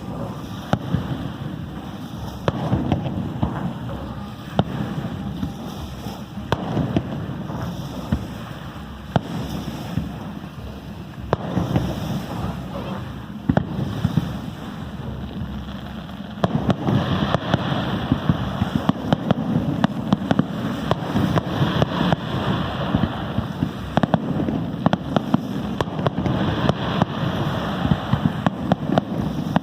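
Aerial fireworks display: a continuous run of bangs over a rumbling background, growing denser and louder a little past halfway.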